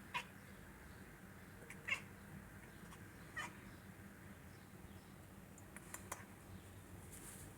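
Domestic cat giving short mews, three of them about a second and a half apart in the first half, with a couple of faint clicks later.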